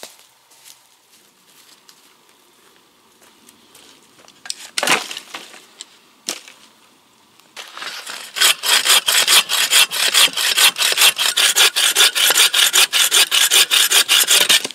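Hand saw cutting through a dry branch for firewood, with quick, even back-and-forth strokes at about five a second from about eight seconds in. Before that, two sharp cracks of wood, about five and six seconds in.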